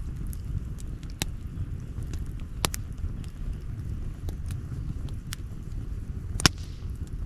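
Wood campfire crackling: scattered sharp pops and snaps over a steady low rumble, with the loudest pop about six and a half seconds in.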